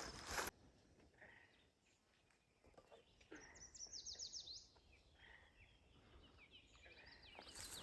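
Faint bird song: a quick run of high, sweeping chirps about three seconds in and more twittering near the end. A brief rustle at the very start cuts off suddenly.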